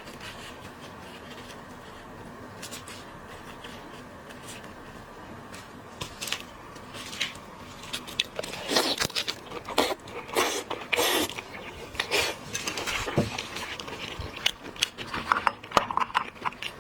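Seafood shells being cracked, snipped and peeled by hand, a crackling and scraping with scattered sharp clicks. It is sparse at first and busier from about halfway through.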